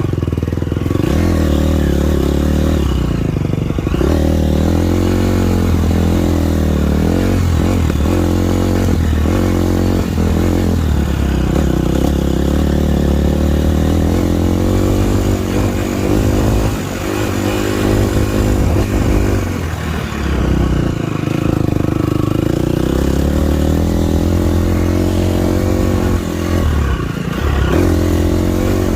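Motocross dirt bike engine being ridden on the track, its pitch rising under throttle and falling off again and again.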